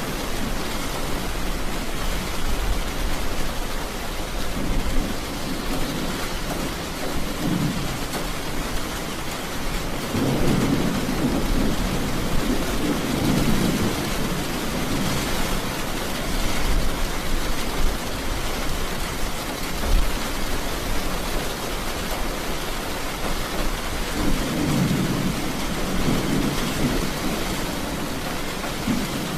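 Steady heavy rain falling, with low rolls of thunder rumbling up twice, about ten seconds in and again near the end.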